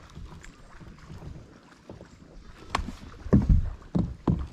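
Wind buffeting the microphone in a low rumble, with a sharp click a little past halfway and then a few heavy thumps near the end.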